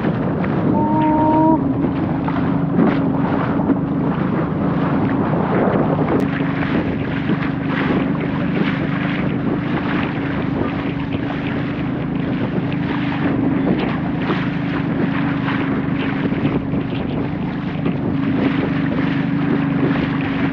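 Small boat's engine running steadily under way, with wind buffeting the microphone and water splashing against the hull.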